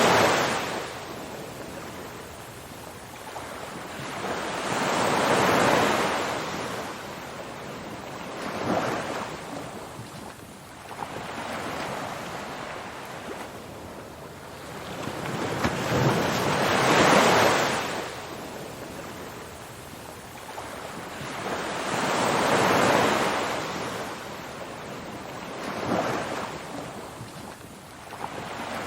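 Ocean surf: waves washing in as a steady rush of noise that swells and falls back every few seconds, with the biggest surges at the very start and about two-thirds of the way through.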